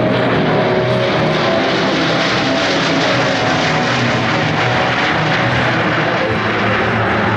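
Loud, steady jet noise from the four turbofan engines of a Boeing C-17 Globemaster III making a display pass, swelling slightly mid-way.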